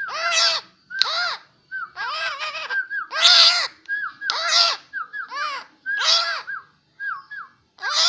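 A newly caught wild 'kaok-kaok' bird calling over and over: about ten loud, harsh, hoarse calls in quick succession, each under a second, with short hooked notes between them.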